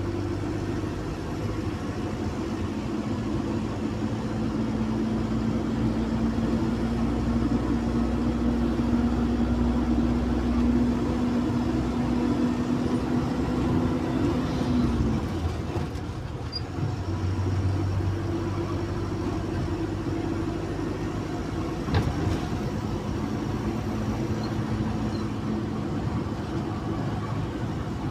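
Zhongtong city bus's Cummins engine running under way, its note climbing slowly before dropping away about halfway through, then picking up again a couple of seconds later. A single sharp click sounds about three-quarters of the way in.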